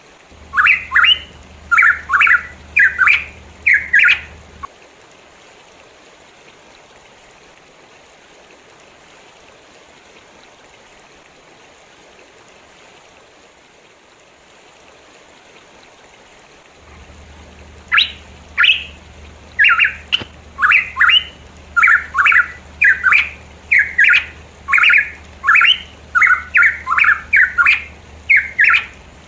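A pitohui calling in quick series of short, loud, whistled notes: a burst in the first four seconds, then about twelve seconds with only a faint steady hiss, then a long run of repeated notes from about 18 seconds on.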